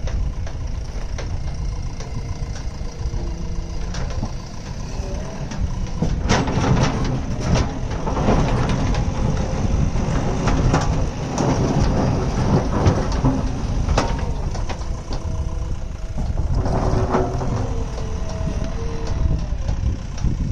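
A JCB earthmoving machine's diesel engine running with a steady low rumble, joined from about six seconds in until about fourteen seconds, and again briefly around seventeen seconds, by rough crunching and rattling of material being worked.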